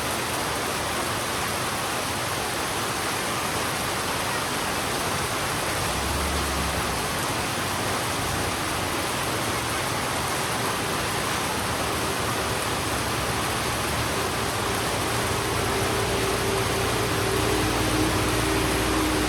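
Heavy rain falling on a road, a steady dense hiss. From about halfway a low engine hum builds and grows a little louder toward the end, as a vehicle approaches.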